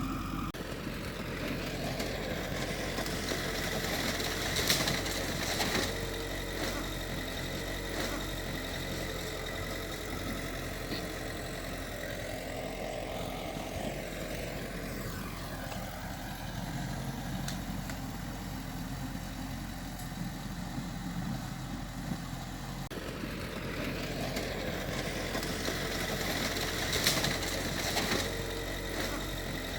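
Diesel engine of a Mitsubishi bulldozer running steadily under work, with a few sharp knocks, the loudest about five seconds in and near the end.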